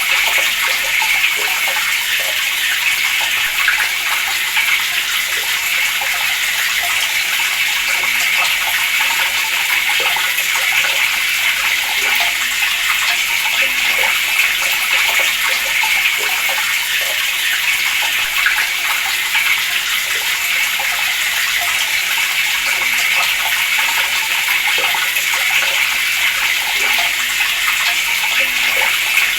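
Water running steadily from a tap in a continuous stream, a steady hiss with no pauses.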